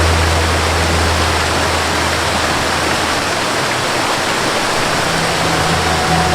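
Waterfall rushing steadily, a loud even wash of falling water. A low held melody tone fades out in the first seconds, and soft sustained melody notes come back about five seconds in.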